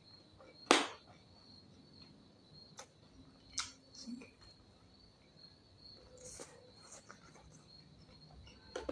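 Eating noises: a few short, sharp smacks and clicks spaced out over several seconds, the loudest about a second in. Under them runs a steady, high-pitched cricket trill.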